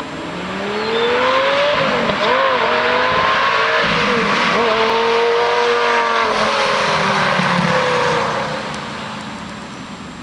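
Lamborghini Gallardo V10 with a Fabspeed Supersport exhaust and X-pipe accelerating hard past: the engine note climbs and is broken by two quick shifts. It holds high, then falls in pitch and fades as the car goes away, about eight seconds in.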